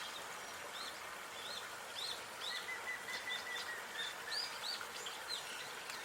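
Small birds chirping, with many short repeated calls and a quick trill starting about two and a half seconds in, over a steady outdoor background hiss.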